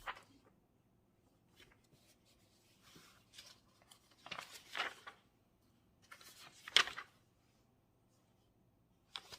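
Papers and study materials being handled on a desk: a few short rustling bursts, the loudest about two-thirds of the way in.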